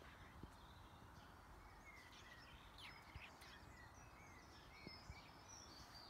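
Faint bird song: a run of short whistled notes and chirps starting about two seconds in, over a low steady outdoor rumble.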